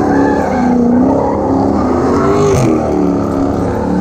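Car engine revving hard, its pitch rising and falling over and over, with tyre noise from wheelspin.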